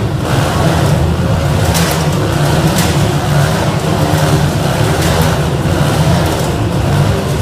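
Motorcycle engines running hard and continuously, a loud steady drone that wavers slightly as the throttle changes.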